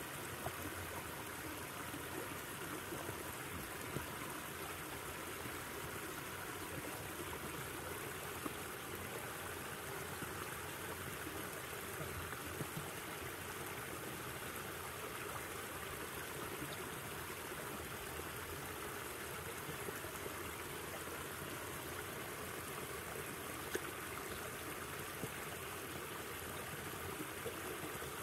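River water flowing steadily, with a few brief clicks now and then.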